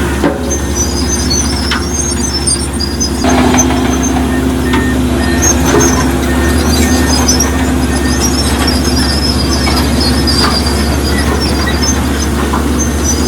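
Diesel engine of heavy earthmoving machinery running steadily, with high metallic squeals over it. The engine gets louder a little over three seconds in.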